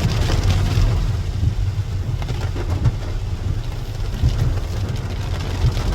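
Rain falling, heard as a haze with scattered small drop ticks over a steady low rumble.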